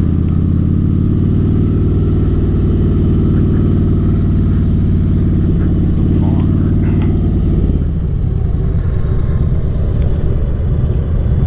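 Harley-Davidson Dyna Switchback's V-twin engine running steadily under the rider; about eight seconds in the engine note eases off and turns rougher.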